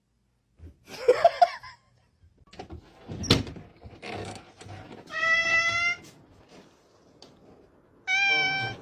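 A cat meowing twice: a call nearly a second long, then a shorter one near the end that drops slightly in pitch. Before them come a rustle and a single sharp knock.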